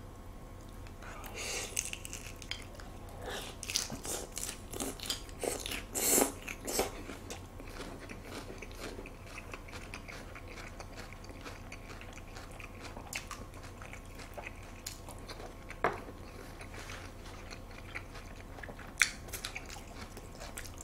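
Close-miked chewing of a salmon sashimi and lettuce wrap: crisp lettuce crunching in quick crackles, densest in the first half and sparser later, with a few sharp clicks near the end.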